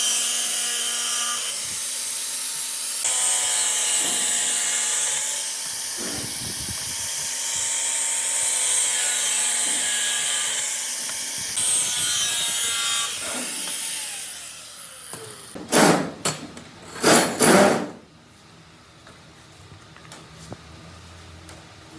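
A handheld power tool running steadily with a high whine. Near the end come three short, loud bursts, and then it stops.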